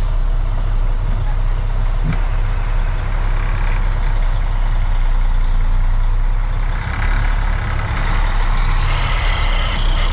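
Freightliner FLD dump truck's diesel engine running at low speed, heard from inside the cab as the truck creeps slowly. A high squeal comes in over the last few seconds.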